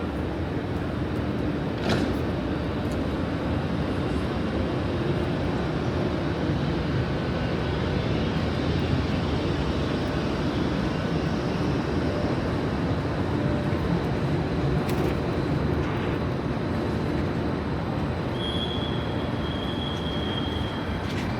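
Regional train running along the track: a steady rumble of wheels and running gear, with a sharp click about two seconds in and a thin, high steady squeal near the end.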